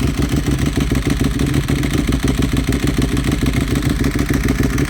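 Ducati 1198S Superbike L-twin engine idling steadily on its first run after being fitted into a Streetfighter frame.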